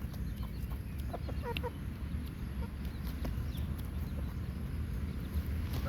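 Backyard chickens clucking softly now and then, a few short calls over a low steady rumble.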